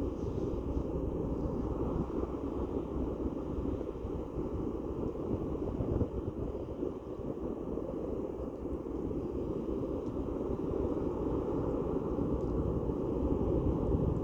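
Steady low rumble of a large ferry's engines as it comes into port, growing a little louder near the end.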